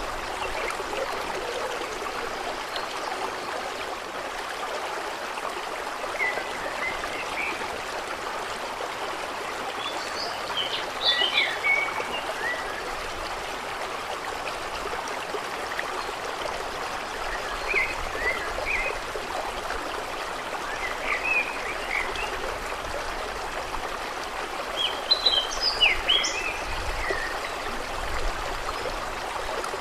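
Steady flow of running water, with small birds chirping in short bursts of quick calls several times through.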